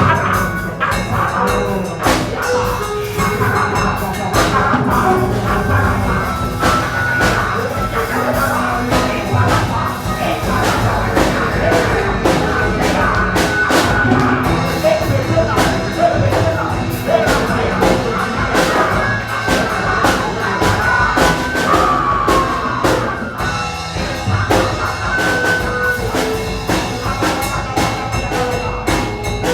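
Church band music with a drum kit and keyboard playing continuously under many voices praying aloud at once during a prayer session.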